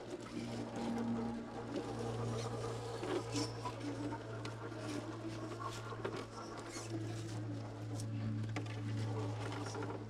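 RC rock crawler's electric motor and gears whirring steadily at low speed, with small clicks and crackles of its tires on rock.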